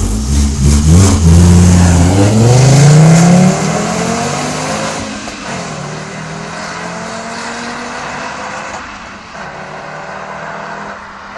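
VW Golf IV V5 20V's 2.3-litre five-cylinder engine and stock exhaust under hard acceleration, the engine note rising for about three seconds before easing off. It then runs at a lower, steadier note, with its pitch dropping briefly twice.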